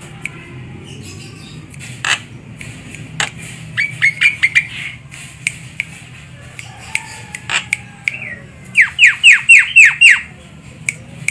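Javan myna calling: scattered sharp clicks and short chirps, then a fast run of about six loud, downward-sweeping squawking calls near the end.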